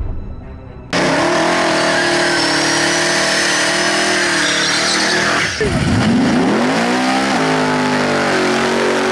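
A street-race car's engine cutting in suddenly about a second in and held at high revs with tyres squealing. About halfway through, the revs dip sharply and climb straight back up, then hold high again.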